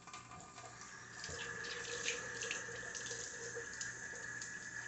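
Kitchen sink tap running while dishes are washed, the water getting louder about a second in, with a few light clinks.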